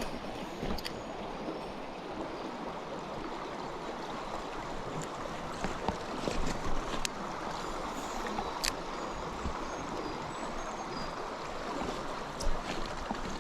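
Small mountain stream running over stones, a steady rush of water, with a few scattered sharp clicks.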